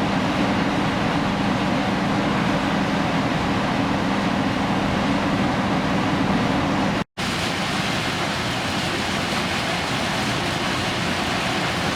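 Steady machinery and water noise of a ship underway: a low engine hum over a rushing wash. About seven seconds in the sound cuts out for an instant, and afterwards the hum is gone, leaving only the steady rushing noise.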